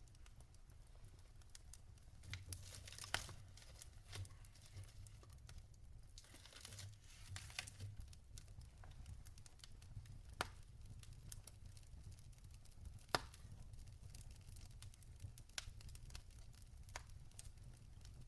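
Wood fire burning in a fireplace, crackling with scattered sharp pops and snaps, the loudest about three, ten and thirteen seconds in, and a short hiss around seven seconds, over a low steady rumble.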